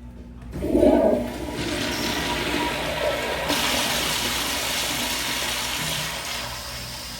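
Kohler toilet flushing: a loud rush of water starts about a second in, followed by a steady rush of draining water that eases off near the end.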